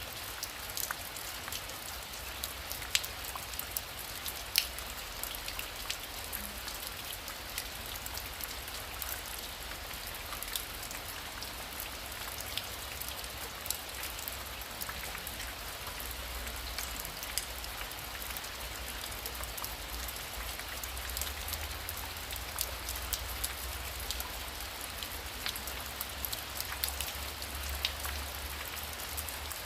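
Heavy rain falling steadily, with many sharp drop clicks as it hits a nearby surface. A low rumble runs underneath and grows stronger in the second half.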